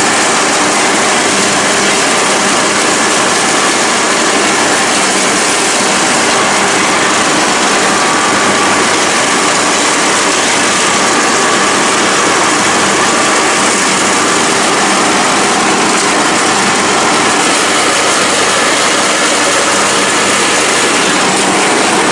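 Single-cylinder Briggs & Stratton engine of a Troy-Bilt Pony riding lawn mower running steadily while mowing, a loud even drone that does not change.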